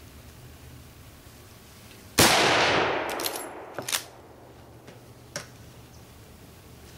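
A single rifle shot from a Glenfield/Marlin 30A lever-action .30-30 about two seconds in, ringing out for over a second. It is followed by a few short metallic clicks as the lever action is cycled.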